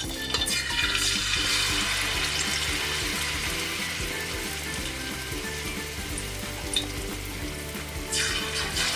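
Beer-battered chicken legs deep-frying in hot oil, a loud, steady sizzle. It swells as the chicken goes in about a second in and flares up again near the end.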